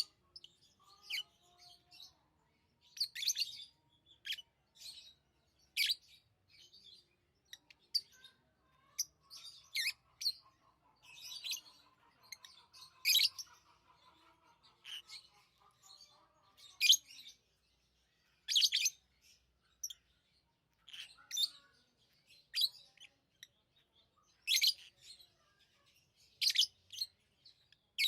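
Pet lovebirds chirping: short, sharp, high-pitched chirps at irregular intervals, one every second or two, with a softer, lower chattering warble underneath for several seconds in the middle.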